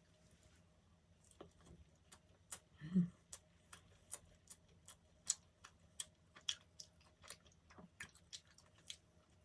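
Close-up chewing of a soft dessert pastry: irregular wet mouth clicks that start about a second and a half in and go on, with a short hum from the eater about three seconds in.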